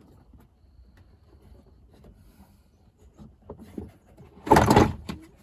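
Quiet handling of parts and wiring with a few small clicks, then a short, loud clatter about four and a half seconds in as parts are fitted back into place.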